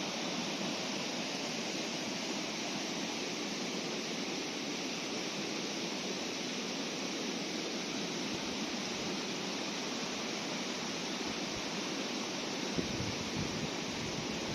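Fast-flowing moorland river rushing, a steady even hiss of water, with a short rumble of wind on the microphone near the end.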